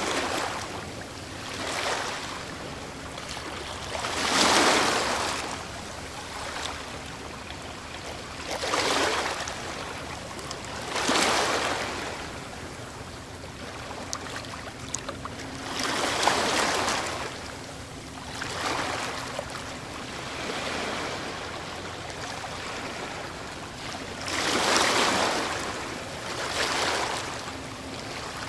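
Ocean waves breaking on a shore, each breaker surging up as a wash of hiss and then drawing back, one every few seconds, over a steady background of surf.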